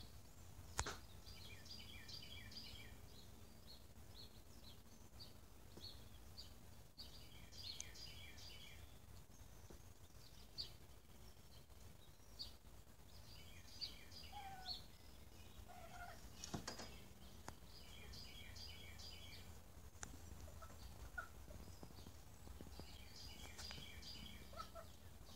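Faint bird calls: groups of rapid, repeated chirps every few seconds over a low steady background hum, with a sharp click about a second in and another midway.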